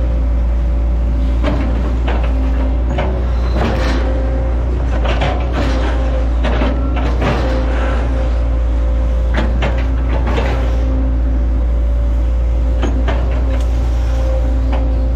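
Hitachi ZX110 excavator's diesel engine running steadily with a constant hydraulic whine, while repeated sharp cracks and knocks come from the bucket chopping and splitting oil palm trunks.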